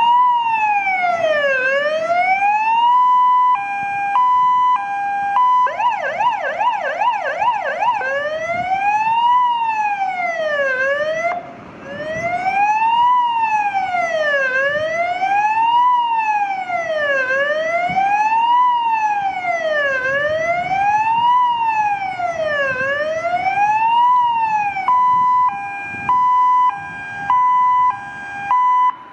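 Electronic siren of a MAN TGM fire engine run through its tones: a slow rising and falling wail about every three seconds, broken by a stretch of two-note hi-lo and a few seconds of fast yelp. Then a long stretch of wail, ending on the two-note hi-lo before cutting off.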